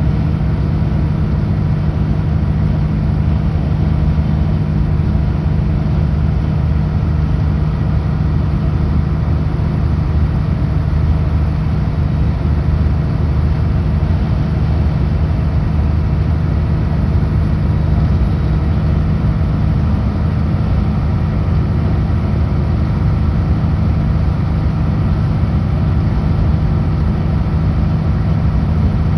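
Kenworth W900L semi truck's diesel engine running at a steady highway cruise: a constant low drone with road noise underneath, unchanging throughout.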